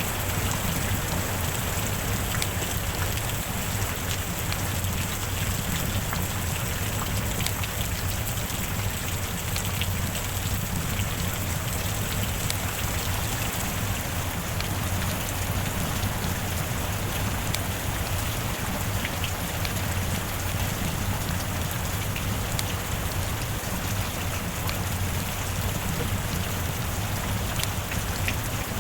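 Steady heavy rainfall, an even wash of rain with many individual drops ticking through it.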